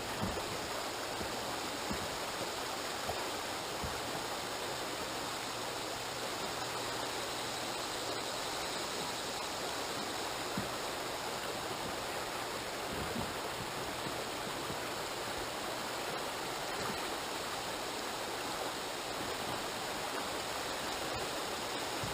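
River water rushing steadily past, an even hiss with no letup and a few faint knocks.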